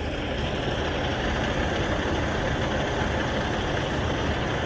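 Heavy diesel truck engine idling steadily, a low even rumble.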